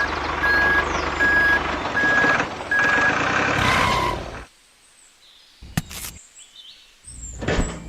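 A vehicle's reversing alarm beeping at an even pace, about one beep every two-thirds of a second, over running machine noise. The beeping stops about three seconds in, and the machine noise stops a little after. The rest is quiet, with a couple of short knocks.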